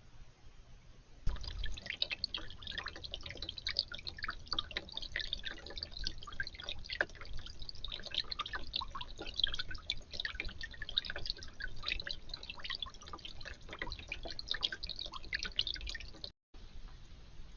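Water dripping and splashing in a garden bird bath, a dense irregular patter of small drops that starts abruptly about a second in and cuts out briefly near the end.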